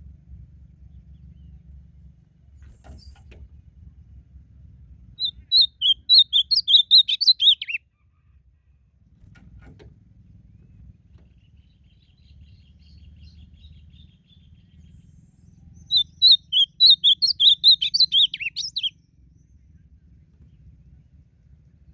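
Ultramarine grosbeak (azulão) singing two song phrases about ten seconds apart. Each is a quick run of warbled notes lasting under three seconds and dropping in pitch at the end.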